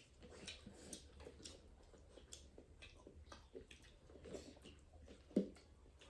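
Faint chewing and small mouth and utensil clicks of a meal being eaten, with one sharper knock about five and a half seconds in.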